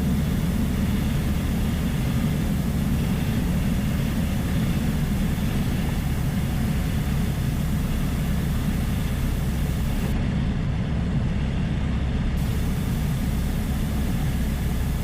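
Piper Dakota's six-cylinder Lycoming engine and propeller running at a steady low power, a constant deep drone in the cockpit just after touchdown, on the landing rollout.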